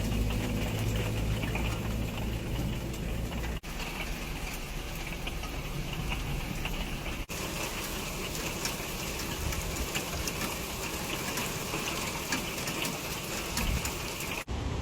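Heavy rain pouring down, a steady hiss packed with fine drop impacts, briefly cut off three times.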